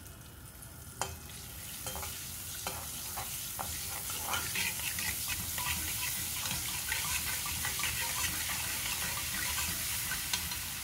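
Curry leaves sizzling and crackling in hot oil in an aluminium kadai, building up from about two seconds in. A metal spatula clinks and scrapes against the pan as they are stirred.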